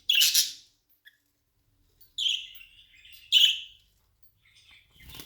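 Pet birds calling: three loud, short, high-pitched chirps, one at the start, one about two seconds in and one about three and a half seconds in, followed by a brief rustling noise near the end.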